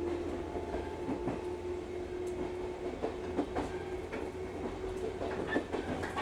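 Electric local train heard from inside the car, running along the track with a steady rumble and scattered clicks from the rails. A steady hum from the train stops about five and a half seconds in.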